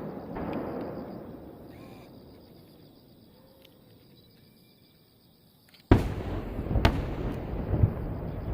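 Fireworks shells bursting in the sky. Deep booms fade away over the first few seconds, then after a lull a sudden loud bang comes about six seconds in, followed by two more bangs about a second apart, each trailing a low rumble.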